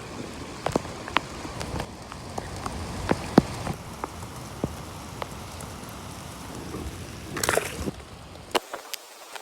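Steady rain falling, with sharp drops tapping at irregular moments. A brief louder noise comes near the end, and the low rumble of the rain cuts out just before the end.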